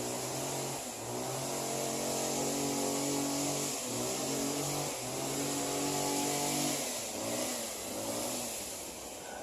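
A motor vehicle engine running, its pitch mostly steady with a few brief dips and some rising-and-falling sweeps near the end, over a steady hiss.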